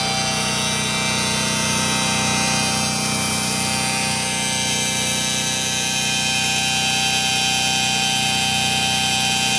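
Steady machine noise with a constant whine, running evenly without change.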